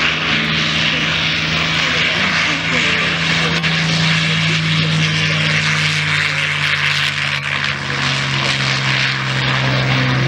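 Piston-engine propeller aircraft flying past at an airshow, its engine running loud and steady. The engine tone drops in pitch about four seconds in as the plane passes.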